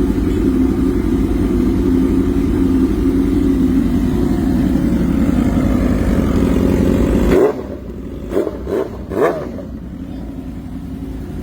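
Modified Yamaha sport bike's inline-four engine with an aftermarket exhaust idling steadily. About seven seconds in the sound drops abruptly, and a few short throttle blips follow.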